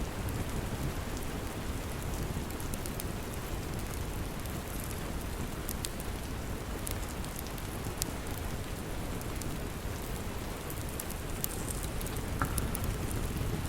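Steady rain, with a few sharp crackles from a wood fire scattered through it.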